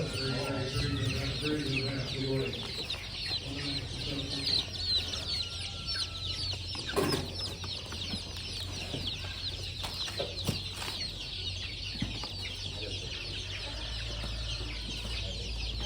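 Many caged poultry calling at once: a dense, constant chorus of high peeps and chirps mixed with clucking. A sharp knock comes about seven seconds in.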